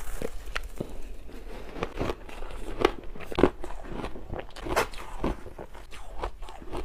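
Water-dipped shaved ice being bitten and chewed: a quick, irregular run of short crunches, one louder crunch about three and a half seconds in.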